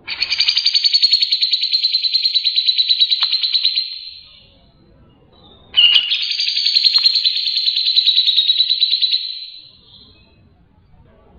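Cucak jenggot (grey-cheeked bulbul) singing: two long, fast-pulsed trills of about four seconds each, the second starting about six seconds in, each trailing off at its end.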